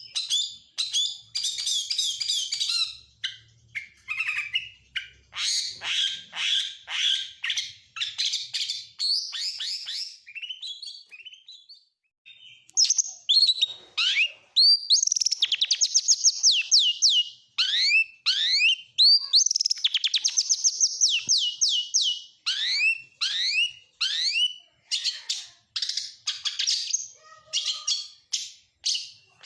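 Oriental magpie-robin (kacer) singing a fast, varied song full of mimicked calls, the fill-ins of lovebird, canary and prinia that the recording is built on. It runs as rapid strings of sharply down-slurred whistled notes, with a short break a little before the middle and then fast runs of repeated descending notes.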